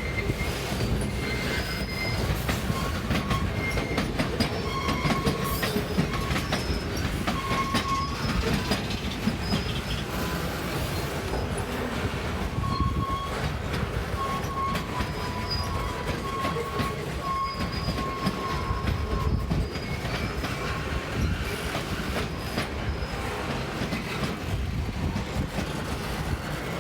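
CSX freight train's cars rolling along the track, with the clatter of wheels over the rails and short, intermittent high-pitched wheel squeals.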